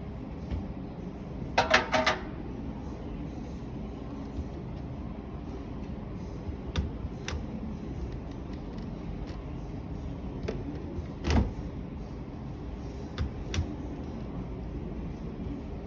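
Display washing machine doors being handled, giving sharp clicks and knocks: a quick run of them about two seconds in, then single knocks scattered through, the loudest about eleven seconds in, over a steady background hum.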